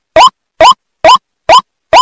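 White-breasted waterhen (ruak-ruak) call played as a looped bird lure: short, loud notes, each rising in pitch, repeating evenly about twice a second with dead silence between them.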